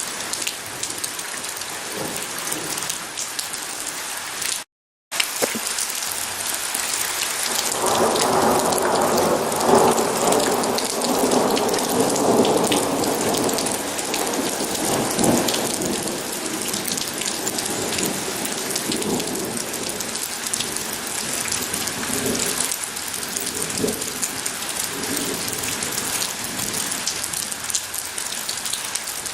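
Steady heavy rain falling, with a long roll of thunder that swells about eight seconds in and slowly fades over the next several seconds. The sound cuts out completely for about half a second near five seconds in.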